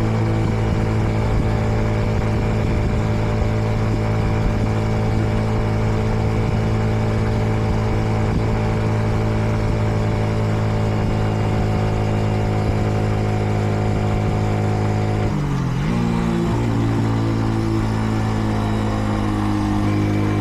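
Kreidler Dice CR 125 motorcycle engine running at a steady cruise, held at moderate revs while it is being run in. About fifteen seconds in, the revs dip briefly and then recover.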